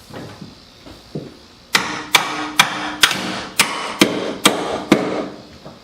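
A hammer striking metal about eight times at roughly two blows a second, each with a short metallic ring, starting nearly two seconds in: knocking an engine-mount fitting into place.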